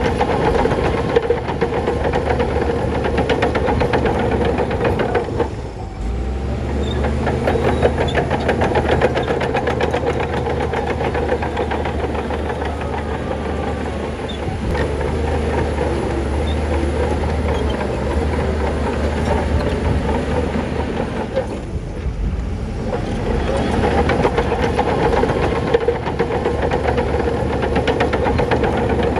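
Crawler bulldozer working: its diesel engine runs steadily under a dense clanking from the steel tracks. The sound eases briefly twice, about five seconds in and again near twenty-two seconds.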